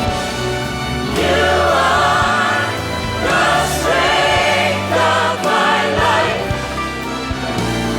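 A choir singing a worship song with instrumental accompaniment, sung phrases with vibrato over sustained low chords.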